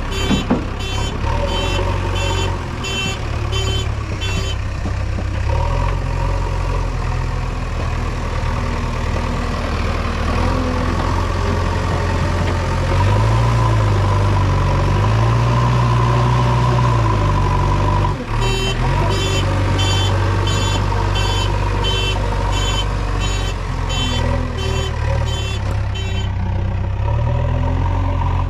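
JCB 3DX backhoe loader's diesel engine running, its pitch rising and falling in the middle as it works. A reversing alarm beeps about twice a second at the start and again for several seconds from about two-thirds of the way through.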